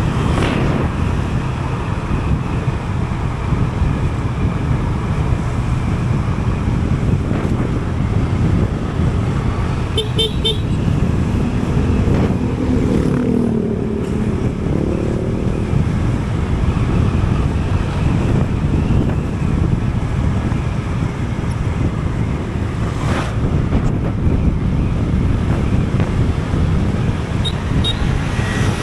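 Continuous wind and road noise of a vehicle ride on a highway, with passing traffic. Short horn toots come about ten seconds in, and a pitched engine note rises and falls a little later.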